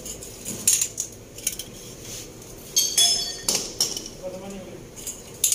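Metal tools and engine parts clinking and clanking as they are handled, a series of sharp knocks with a short metallic ring about three seconds in.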